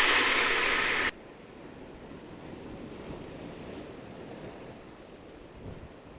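Sea waves washing in, with wind buffeting the microphone, as a steady hiss. A louder noisy passage cuts off suddenly about a second in.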